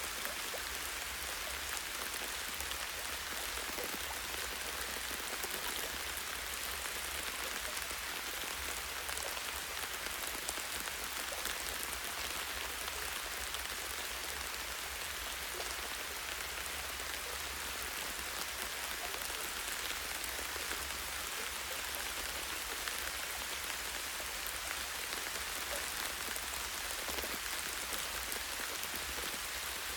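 Light, steady rain falling on forest leaves and a tree branch: a constant fine hiss with many small drop ticks.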